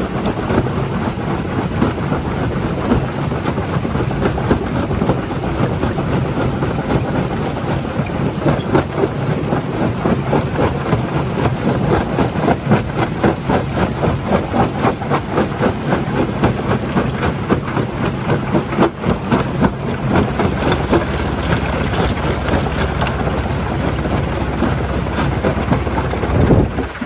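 Stone crusher breaking rock: a heavy, continuous rumble full of rapid, irregular cracking and clattering of stone. A louder low surge comes near the end.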